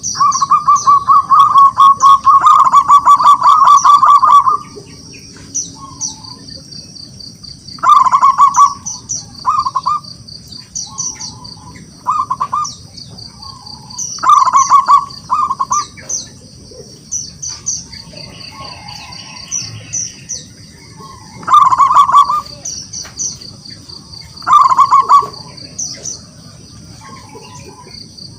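Zebra dove (perkutut) cooing in rapid, pulsed phrases: a long run in the first few seconds, then shorter phrases every few seconds. Steady high-pitched chirping runs underneath.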